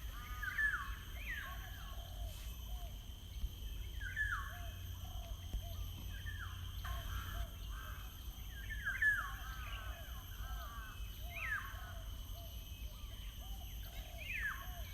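Birds calling: many short chirping calls, repeated, some sweeping up or down in pitch, over a steady low rumble.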